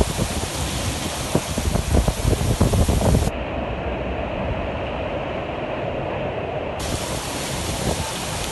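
Heavy rain and rushing water making a steady loud noise, with wind buffeting the microphone in the first three seconds. About three seconds in it cuts to a duller, more muffled recording of the downpour, and the brighter sound returns near the end.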